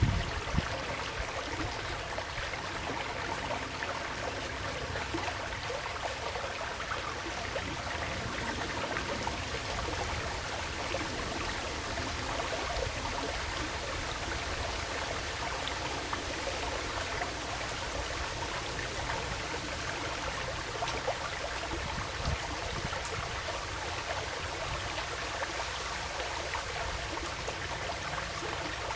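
Woodland stream flowing steadily.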